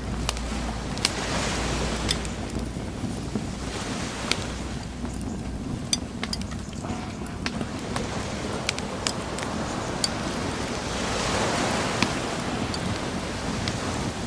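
Wood bonfire crackling with scattered sharp pops over the wash of ocean waves, one wave swelling about a second in and a bigger one near the end.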